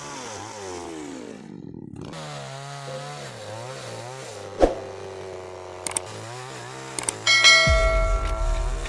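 Engine-driven saw running, its engine speed rising and falling, with a sharp click about halfway. Near the end it grows louder, with a steady high whine over a low rumble as it cuts.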